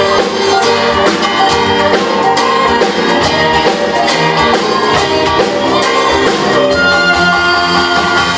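Fusion gugak ensemble, Korean traditional instruments together with Western strings and piano, playing a busy instrumental passage: held tones with a steady stream of sharp note attacks.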